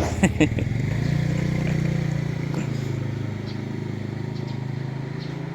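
A small engine running steadily at a low pitch, getting a little louder about a second in and easing off toward the end, with two brief sharp sounds just after the start.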